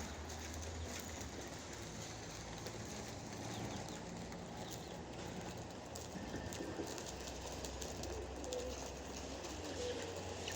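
Pigeons cooing, low and soft, with scattered faint clicks.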